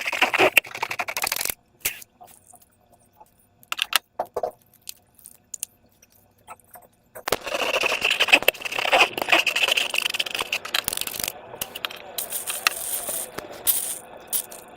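Slime being worked by hand, giving dense, rapid crackling. The crackling stops after about a second and a half, leaves only scattered clicks for several seconds, then comes back louder at about seven seconds and eases to a softer rustle after about eleven.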